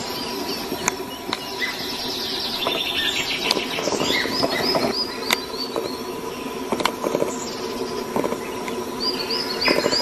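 Several birds calling at once: quick runs of short, high, falling chirps over lower chattering notes, with a few sharp snaps.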